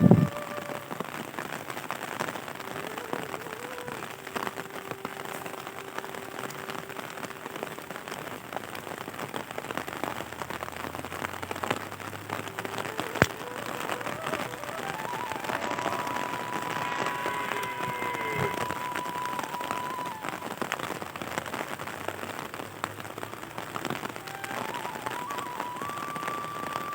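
Steady rain falling and pattering on surfaces, dense with individual drop ticks. Faint held tones come and go in the background, and there is one sharper click about halfway through.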